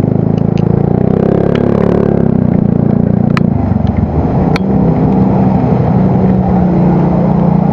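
Yamaha Mio Soul GT scooter engine running steadily through its aftermarket exhaust. Its note changes about three and a half seconds in, with a couple of sharp clicks.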